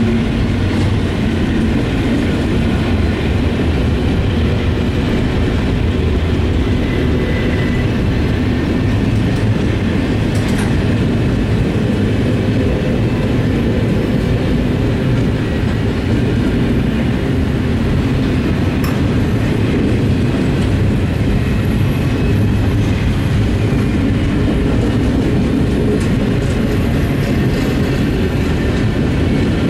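Norfolk Southern double-stack intermodal freight train rolling past, its container cars making a steady, loud rumble of steel wheels on rail, with a couple of sharp knocks along the way.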